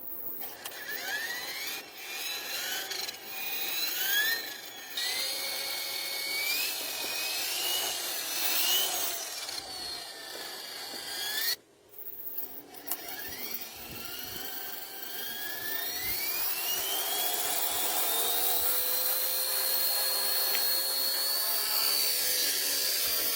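Small electric motor of a homemade juice-can toy helicopter whining as it runs, its pitch rising and wavering as it speeds up. It cuts out suddenly for a moment about twelve seconds in, then starts again and climbs slowly to a high, steady whine.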